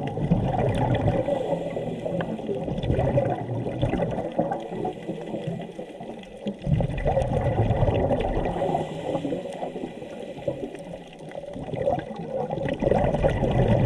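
Underwater sound of a scuba diver breathing through a regulator: bubbly rumbling surges of exhaled air every four to six seconds, with quieter stretches between breaths.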